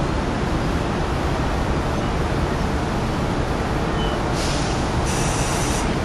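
Steady loud rumble of trains: an Amtrak Acela trainset close by and a diesel locomotive approaching. Short hisses of air come about four and a half and five seconds in.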